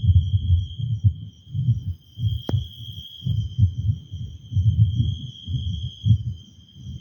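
Choppy low rumbling of wind buffeting the microphone, over a steady, pulsing high chirr of crickets or other night insects; a single sharp click about two and a half seconds in.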